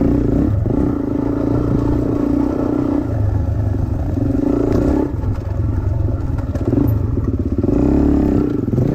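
Dirt bike engine running under way, its note dropping briefly a few times as the throttle is eased and picking up again, with a rise and fall in pitch near the end, over clattering from the bike.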